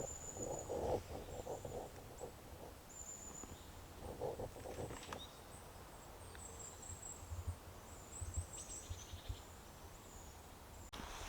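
Quiet woodland ambience: faint, high-pitched bird calls chirping on and off, with brief rustling or crackling near the start and again about four seconds in.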